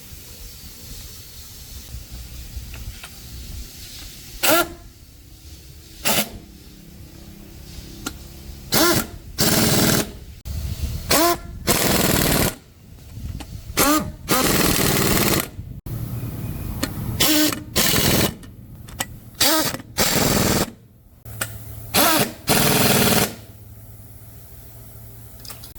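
Pneumatic impact wrench run in repeated short bursts, each spinning up with a brief rising whine into a rattling hammer. There are about ten bursts, some quick blips and some about a second long, as nuts or bolts on a truck axle are worked.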